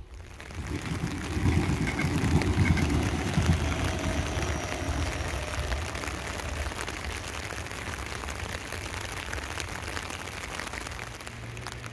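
Electric commuter train running past on the embankment, its wheels rumbling and rattling on the rails, loudest a couple of seconds in and then settling into a steadier, quieter running noise as it draws away.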